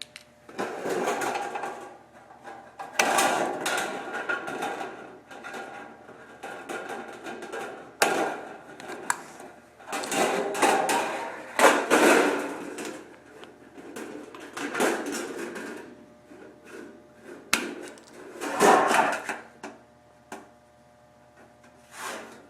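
Hand snips cutting notches in a sheet-metal duct: irregular crunching cuts and rattling of the sheet, with a few sharp clicks.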